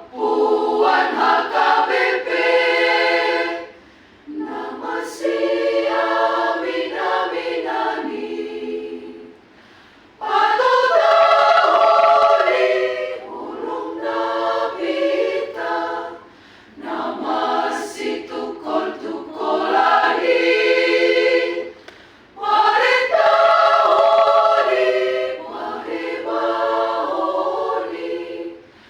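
A choir singing unaccompanied in five phrases of a few seconds each, with short breaks between them, as when rehearsing a passage under a conductor.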